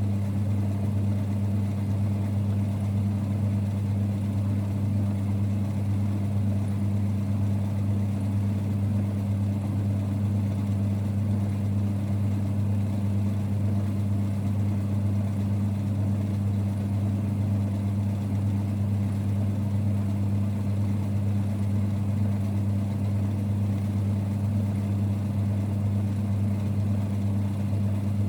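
1946 Boxford metalworking lathe running steadily: an even, low rumble with a deep hum that doesn't change.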